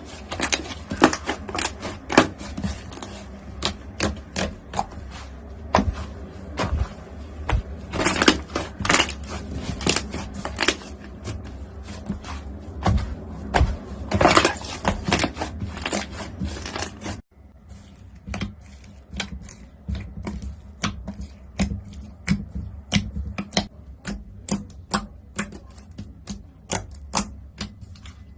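Crunchy slime being pressed and squeezed by hand, giving a dense run of sharp crackling clicks and pops. The sound breaks off abruptly about two-thirds of the way through and a similar crackling carries on over a quieter background.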